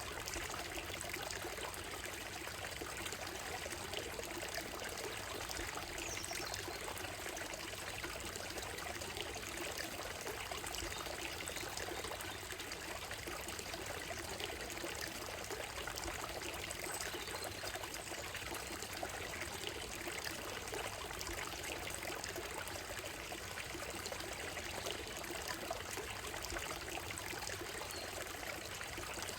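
Shallow stream running steadily over a gravel bed and stones, a constant trickling rush of water.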